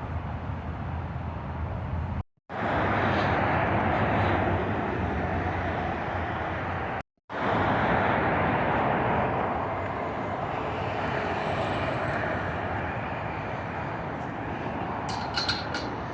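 Steady rush of highway traffic, mostly tyre noise from passing vehicles. It cuts out twice for a split second.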